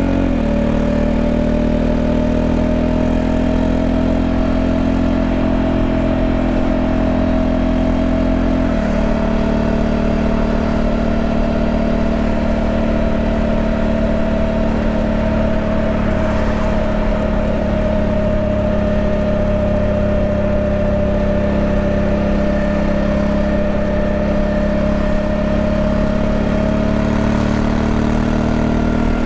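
Honda Africa Twin 1100's parallel-twin engine running at fairly steady revs, its pitch rising slightly in the first few seconds and easing later, with a shift in its lower tone about nine seconds in.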